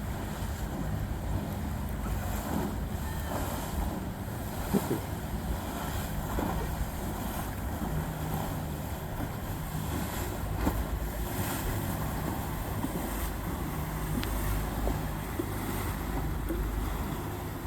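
Boat engines running steadily on the water, a low drone with a faint hum, with wind buffeting the microphone and a few light knocks.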